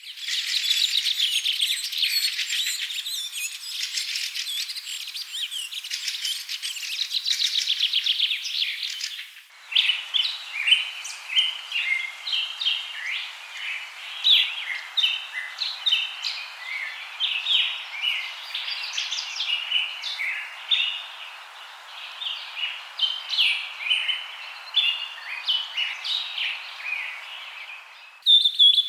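Many birds chirping and trilling together in a dense chorus. About a third of the way in it cuts abruptly to a different chorus of short, repeated chirps over a steady hiss.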